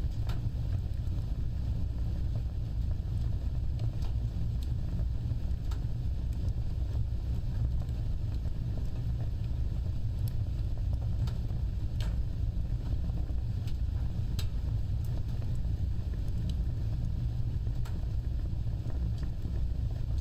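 Wood fire burning: a steady low rumble of flames with scattered sharp crackles and pops from the burning wood.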